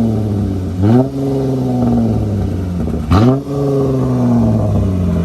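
V6 Dodge Challenger engine revved twice, about a second in and again about three seconds in. Each time the pitch climbs quickly and then sinks slowly back toward idle.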